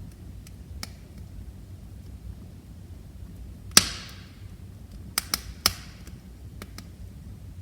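Wood fire in a fireplace, burning with a low steady rumble and crackling. There is one loud pop with a hiss trailing after it about four seconds in, a quick cluster of three pops about a second later, and faint ticks between.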